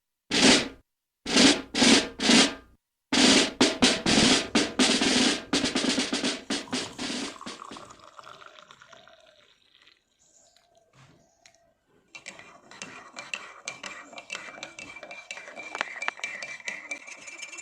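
Drum intro: a few single heavy drum hits, then a fast drum roll that fades away. After a short quiet gap, a lighter clicking pattern with a faint steady tone comes in near the end.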